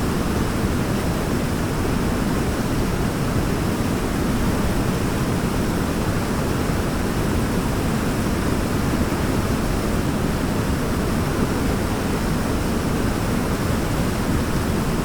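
Waterfall: a steady, even rush of falling water, heaviest in the low end, without a break or change.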